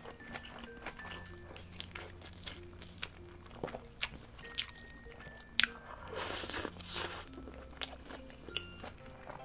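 Close-up mouth sounds of eating aged-kimchi braised chicken and rice: wet chewing with many small crunches and clicks. About six seconds in comes a longer rushing slurp as thick glass noodles are sucked in.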